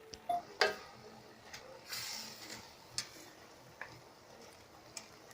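Dry fideo noodles being added to the pan of seafood: a few sharp clinks, the loudest with a short metallic ring about half a second in, a brief rattling rustle around two seconds in, then scattered light ticks.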